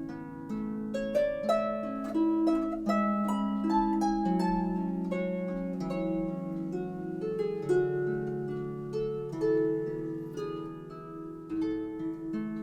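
Background harp music: a solo harp playing a flowing line of plucked notes over held bass notes.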